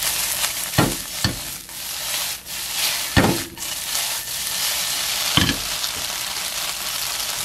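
Tofu cubes and green onion frying in oil in a non-stick wok: a steady sizzle. The pan is tossed to turn the cubes, with four short knocks spread through the sizzle.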